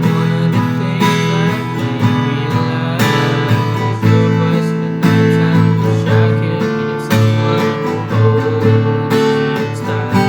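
Acoustic guitar strumming chords in a steady rhythm: an instrumental passage of a song.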